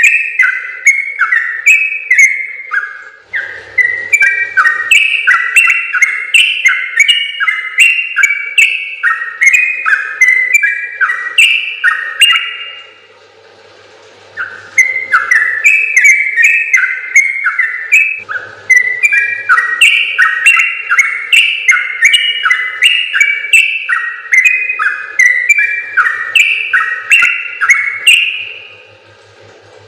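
Yellow-vented bulbul (trucukan) singing long, fast runs of short whistled notes that step up and down, about two or three a second. The song breaks off briefly about 13 seconds in and again near the end.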